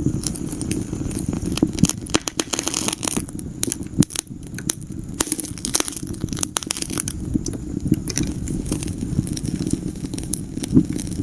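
Wood fire burning in a fireplace: frequent crackles and sharp pops over a steady low rumble of the flames, with one louder pop near the end.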